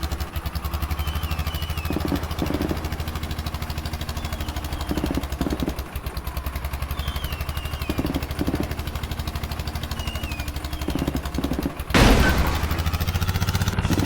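Modified tractor engine running with a rapid, even beat and a recurring clatter. About twelve seconds in there is a loud bang, and the engine runs louder after it.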